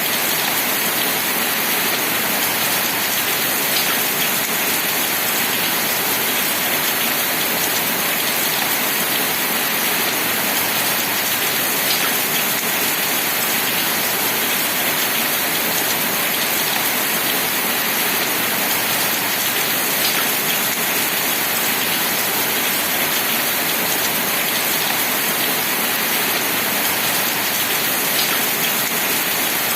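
Steady rain falling, an even hiss of rain on a surface, with a faint click about every eight seconds.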